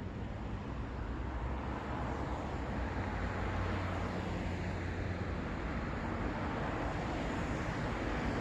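Road traffic: a steady wash of passing-car tyre and engine noise with a low rumble, growing gradually louder as a vehicle approaches.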